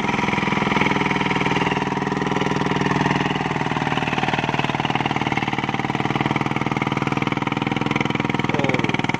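Single-cylinder diesel engine of an i-taen farm truck running steadily while hauling a full load of sugarcane, a fast, even chugging at constant speed.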